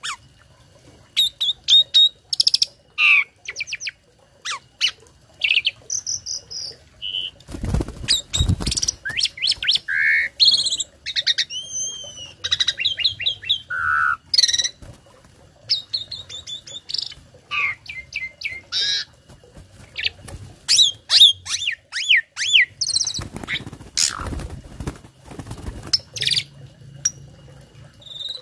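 Asian pied starling (jalak suren) in full song: a rapid, varied run of whistles, chirps, rising and falling glides and clicks, with mimicked phrases learned from other birds. The run is broken twice, about a quarter of the way in and again near the end, by loud, rasping passages.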